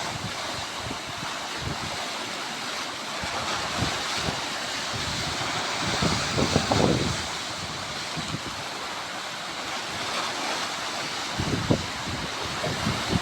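Sea waves washing against the shore in a steady hiss, with low buffets of wind on the microphone about six seconds in and again near the end.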